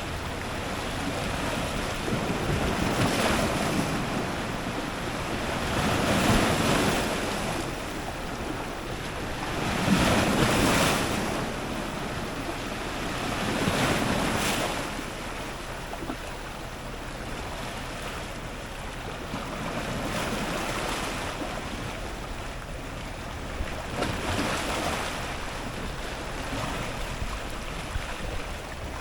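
Ocean surf breaking on rocks: a constant wash of churning seawater with waves surging in every few seconds. The strongest surges come about three, six, ten and fourteen seconds in, and weaker ones follow later.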